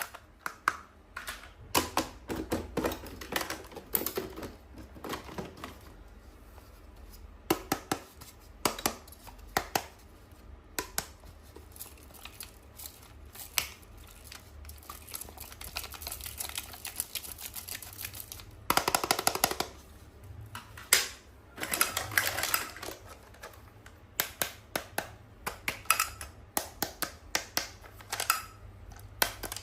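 Irregular clicks and taps of hands handling small plastic toys and their packaging, some in quick clusters, with short stretches of rustling.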